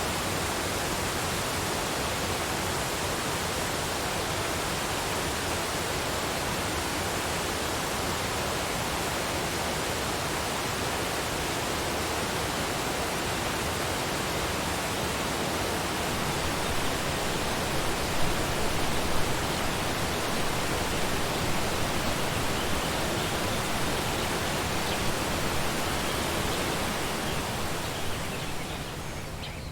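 Waterfall: a steady rush of falling water, a little louder and more uneven in the second half, dipping briefly near the end.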